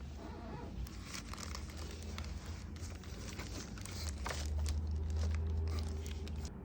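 Packaging being handled during an unboxing: irregular crinkling and tearing of paper or plastic wrap. A low handling rumble grows louder in the second half.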